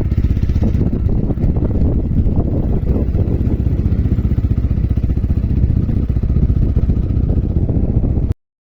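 A motorcycle on the move: engine running with heavy wind noise on the microphone, cutting off suddenly near the end.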